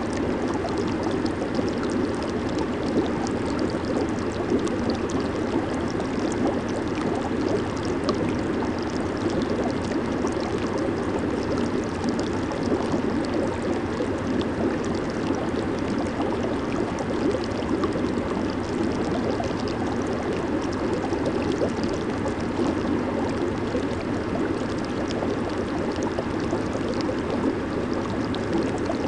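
Jacuzzi water churning steadily, a dense bubbling and gurgling from the jets and air bubbles.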